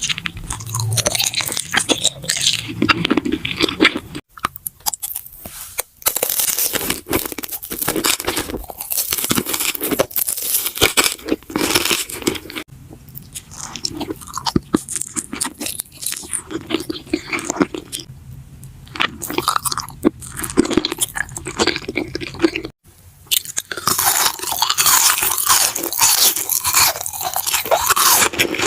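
Close-miked ASMR eating: crunchy bites and chewing, dense crackling, with a few short breaks.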